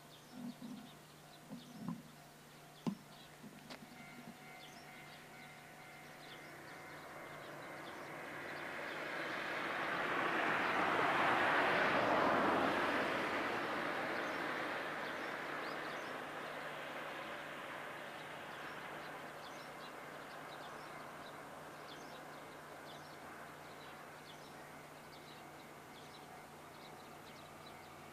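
DF200 diesel-electric locomotive hauling a freight train past. The rumble builds, peaks about twelve seconds in, then slowly fades as the wagons roll by. A few sharp clicks come in the first three seconds.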